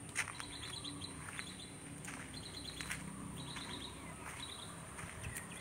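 Small birds chirping faintly, a short run of quick high chirps about once a second.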